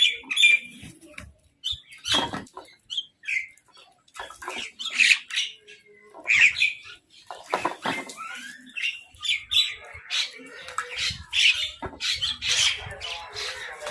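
Crows and mynahs calling as they squabble over food: a busy string of short calls, one after another, some overlapping.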